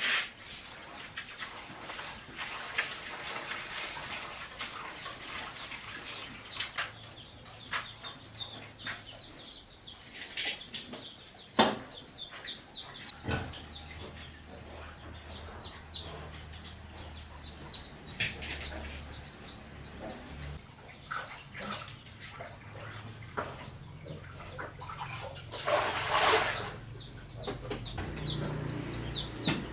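Farmyard chickens clucking among repeated short bird chirps, with scattered knocks. Near the end comes a brief rush of noise like water splashing.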